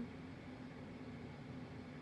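Room tone: a low, steady hiss with a faint steady hum beneath it.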